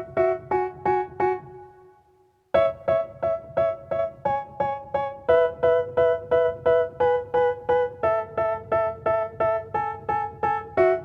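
Background music: a piano-like keyboard playing short repeated chords, about three a second. The chords fade out about a second and a half in, stop briefly, then start again about two and a half seconds in.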